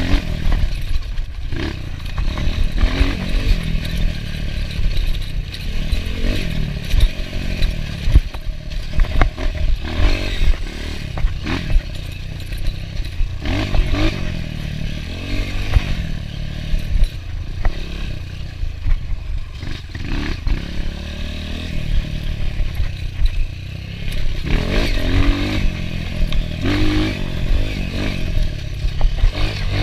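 Enduro dirt bike engine running hard, its pitch rising and falling repeatedly as the throttle opens and closes, with frequent rattles and knocks from riding over rough ground.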